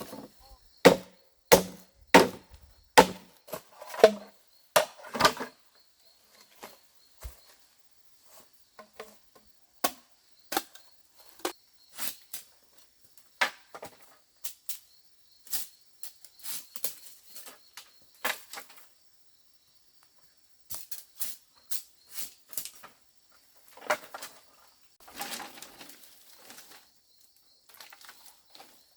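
Repeated sharp blows on wood, as of chopping or hammering timber: a quick run of strong strikes at first, then scattered, lighter knocks.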